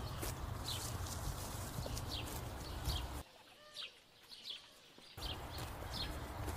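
Birds chirping: short, high, falling chirps repeated every half second or so over a steady low rumble. The sound cuts out to near silence for about two seconds midway, then comes back.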